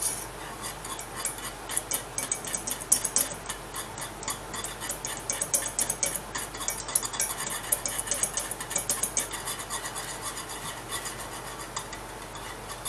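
Metal whisk beating a thickening rum sauce in a non-stick saucepan, the wires clicking and scraping against the pan in quick, irregular strokes.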